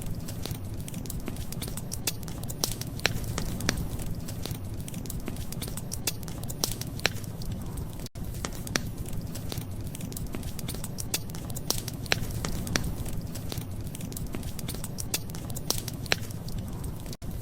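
Wood fire crackling, with frequent sharp pops and snaps over a steady low rumble. The sound drops out for an instant about eight seconds in.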